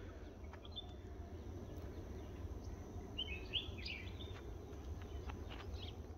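Scattered short bird chirps over a steady low rumble of outdoor background noise, with a brief flurry of chirps a little after three seconds in.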